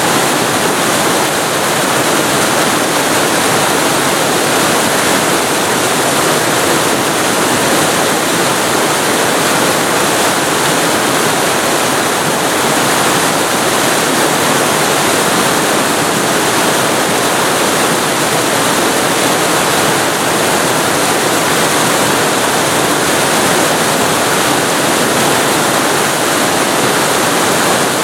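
Waterfall recorded very close to the falling water: a loud, steady rush of water without a break.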